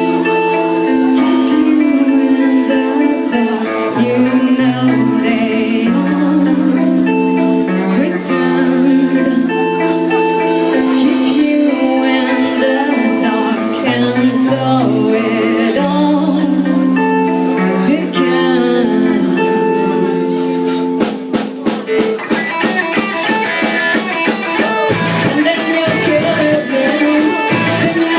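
Live rock band playing: sustained guitar chords and melody, with a steady beat coming in about two-thirds of the way through.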